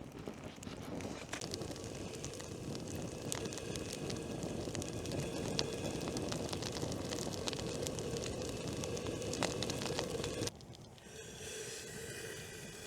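Campfire crackling: a steady rush scattered with sharp pops and snaps, which cuts off suddenly near the end to a quieter hiss.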